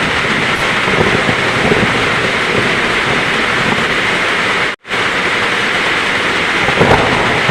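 Heavy rain falling steadily, with a low rumble of thunder beneath it. The sound cuts out completely for a split second about two-thirds of the way through, then resumes, like a splice in the recording.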